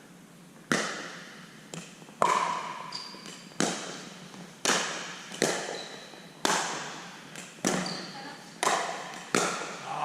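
Pickleball rally: paddles striking a hard plastic pickleball and the ball bouncing on the court, about ten sharp pops roughly a second apart, each ringing on briefly.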